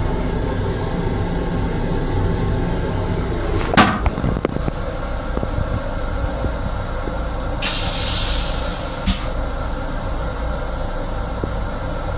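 Steady running rumble of a moving M7 commuter railcar, heard inside its restroom. About four seconds in, the plastic toilet lid comes down with a single sharp bang, and about two-thirds of the way through, a hiss lasts about a second and a half and ends in a click.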